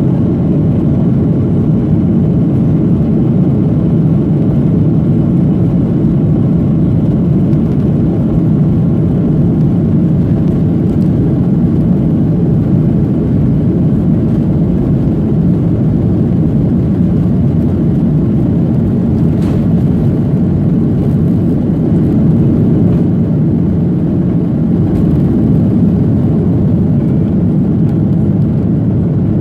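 Steady, loud engine and airflow rumble of a Boeing 737-800, heard inside the cabin from a window seat.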